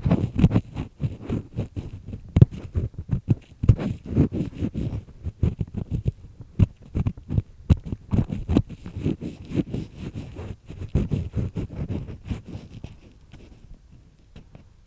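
Ear pick scraping and grinding inside an ear canal, heard very close up: a dense run of irregular scratches and crackles that thins out near the end.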